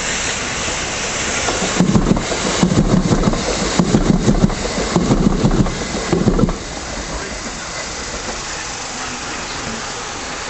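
A train running through the station without stopping: a steady rushing noise, with a rapid clatter of wheels over rail joints from about two seconds in that stops abruptly a few seconds later.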